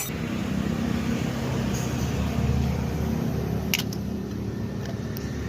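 A motor vehicle engine running steadily at a low, even pitch, with a sharp click at the start and another brief click about four seconds in.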